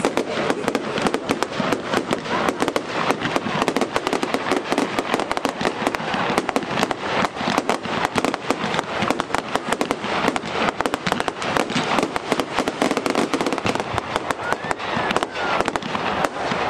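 Fireworks bursting overhead in a dense, continuous run of bangs and crackles, many overlapping with no pause.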